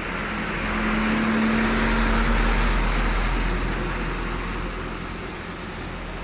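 Steady rain, with a motor vehicle passing by: its low engine hum swells over the first few seconds and then fades back into the rain.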